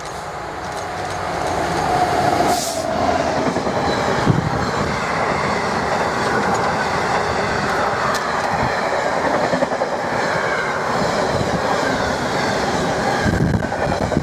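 Freight train wagons passing close by at speed, their wheels clattering over the rail joints; the noise builds over the first two seconds and then holds steady and loud.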